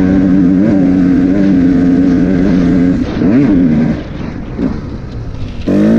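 KTM 125 motorcycle engine held at high revs under full throttle, with a brief dip and climb about three seconds in. Near four seconds the throttle closes and the engine falls to a quieter note, then it opens up again near the end with the pitch rising as it accelerates.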